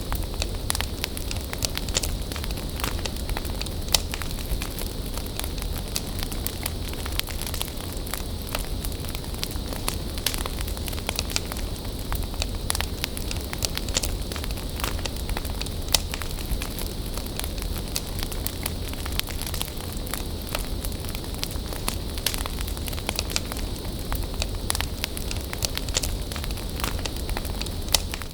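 Wood bonfire burning: a steady hiss of flames full of sharp crackles and pops, with now and then a louder pop.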